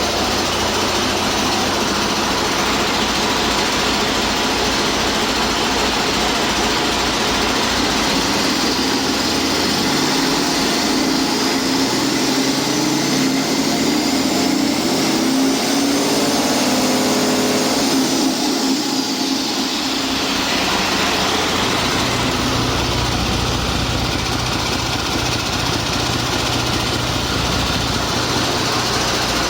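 Detroit Diesel DD13 inline-six diesel engine on a test run, idling, then revved up gradually for about ten seconds and let fall back to idle, with a high whine rising and falling along with the revs.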